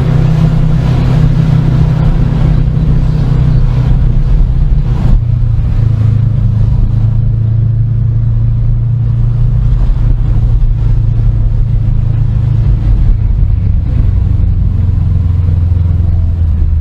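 Car engine running steadily under way with road noise, a loud low drone; the engine note drops a little near the end.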